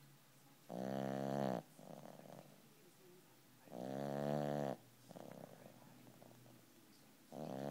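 Boston Terrier puppy snoring in its sleep: three loud, pitched snores about three seconds apart, each lasting about a second, with a softer breath between each.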